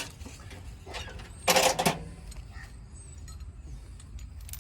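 A tractor engine running with a low, steady rumble, and a brief loud sound about one and a half seconds in.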